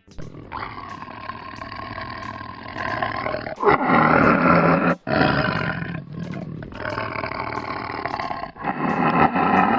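Large wild animal roaring, in several short clips spliced together with abrupt cuts; the loudest roars come in the middle.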